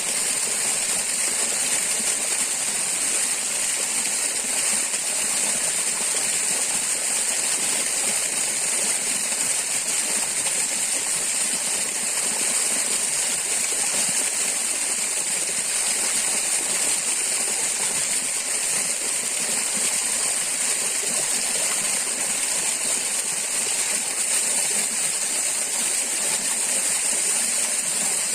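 Steady rushing of a flowing forest stream, with a constant high-pitched drone over it.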